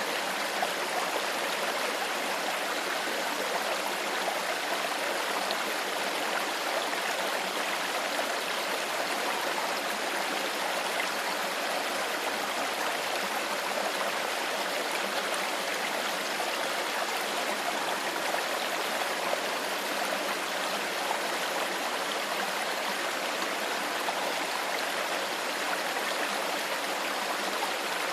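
Shallow stream flowing steadily over stones, a constant rushing and babbling of water.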